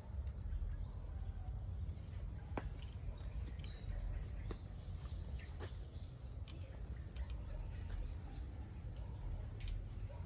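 Small birds chirping in quick runs of short, high notes that fall in pitch, over a steady low rumble.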